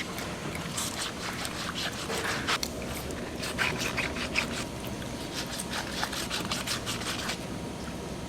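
Food-processing machinery running with a steady low hum under quick, irregular clicking and clattering, which stops about seven seconds in.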